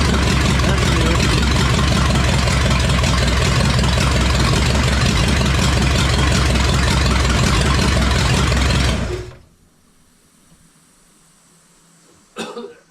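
Carbureted 5.8-litre V8 running steadily on one of its first runs after an engine swap, then shut off about nine seconds in, the sound dying away fast. A single brief knock follows near the end.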